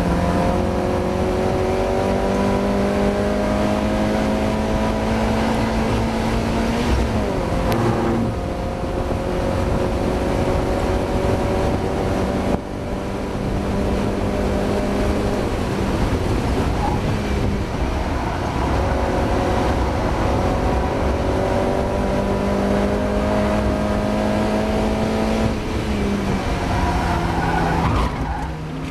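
Mazda MX-5's four-cylinder engine running at full throttle on track, its pitch climbing slowly and steadily in long pulls. The pitch drops briefly about seven seconds in, cuts sharply just past twelve seconds, then climbs again and falls away near the end.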